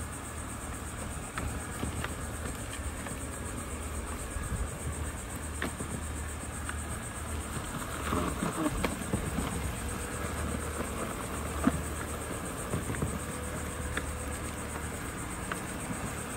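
Robot vacuums running on a tabletop: a steady motor and brush hum, with scattered light clicks and knocks as they pick up cereal.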